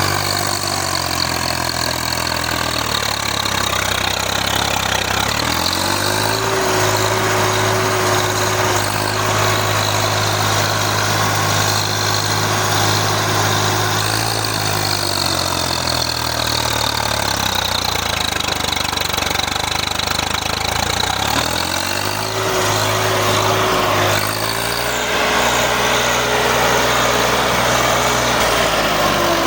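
Swaraj 855 tractor's three-cylinder diesel engine revved up from a low speed and held at high revs, let back down, then revved up and held high a second time, falling away again near the end.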